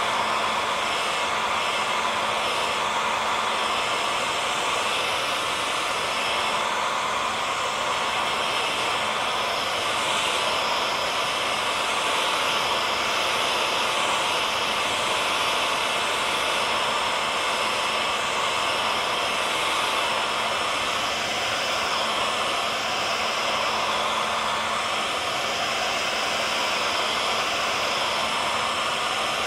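Electric hair dryer running continuously, a steady rushing blow with a faint motor hum.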